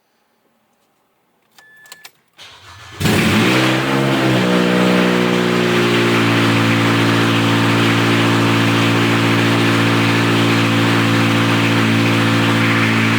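Mazda 6 engine with headers fitted and no catalytic converter or exhaust system being started: a few clicks and a short crank about two seconds in, then it catches at about three seconds with a brief flare in revs. It then settles into a loud, steady idle through the open headers.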